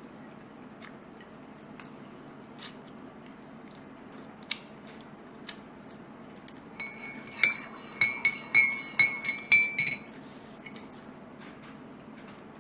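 Scattered light clicks and taps, then a quick run of about six sharp clinks of small hard objects, each ringing at the same pitch, in the latter half.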